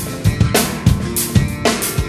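Rock drum kit played along with the band recording, with kick, snare and cymbal hits in an odd-time groove over guitar and bass.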